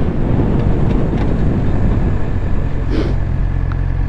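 Suzuki GSX-R600's inline-four engine with wind rush as the motorcycle slows to a stop, then the engine idling steadily from about two seconds in. A short hiss comes about three seconds in.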